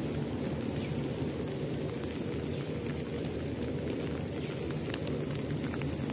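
Steady rain falling, an even hiss, with a few faint short high ticks or chirps over it.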